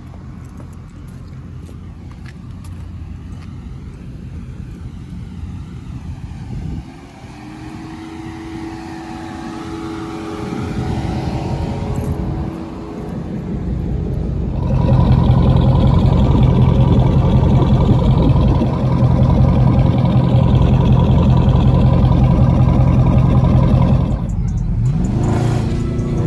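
Dodge Scat Pack's 6.4-litre HEMI V8 revving through a muffler-deleted exhaust: a low rumble that climbs about a quarter of the way in and holds, then gets louder and is held at steady raised revs for about ten seconds before dropping and rising again near the end.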